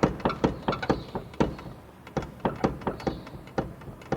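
Front wheel of a Ford Courier pickup rocked back and forth by hand, knocking with a sharp clunk about three to four times a second. The knocks come from worn play in the front suspension and steering joints and in the wheel bearing.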